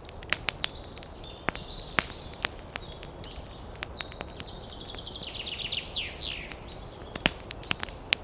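Wood fire crackling with frequent sharp pops over a low rush, while small birds chirp high; about five seconds in, a bird gives a quick run of notes falling in pitch.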